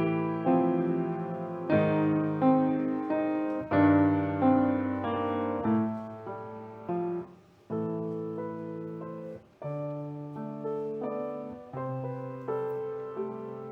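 Solo piano playing a slow piece: chords and melody notes struck and left to ring, with short breaks between phrases about halfway through.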